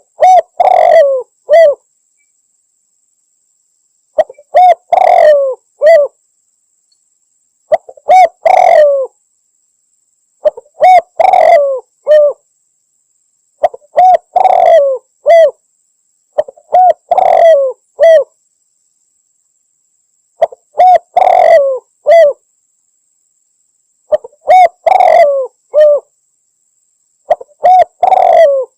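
Spotted dove cooing: a phrase of a short note, a long rolling middle note and one or two short closing notes, repeated every three to four seconds with silence between phrases.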